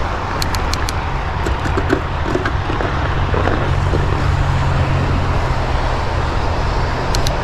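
Fat bike riding over snow: a steady rumble of tyres and wind on the microphone, under a low hum like road traffic that swells in the middle, with a few light ticks.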